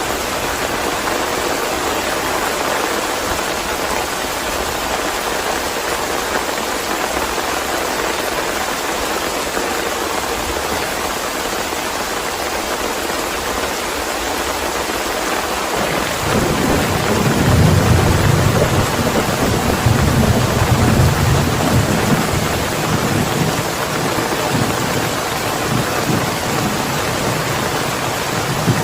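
Steady rain hissing, with a low roll of thunder that comes in a little past halfway, is the loudest part, and dies away over several seconds.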